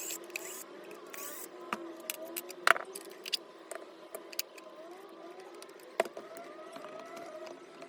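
Small hard parts clicking and clinking as they are handled, the loudest clinks at about three seconds and six seconds in, over a faint wavering hum.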